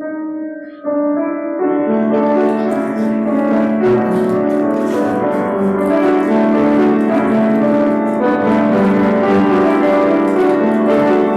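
Instrumental keyboard music playing slow, sustained chords, starting softly and growing fuller about a second in.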